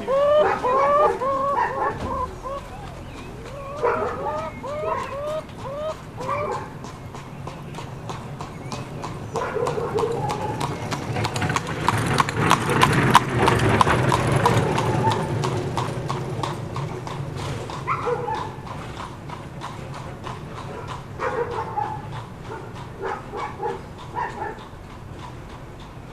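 Horse's hooves clip-clopping in a quick, even rhythm, growing louder to a peak about halfway through and then fading as the horse passes, set among short pitched calls.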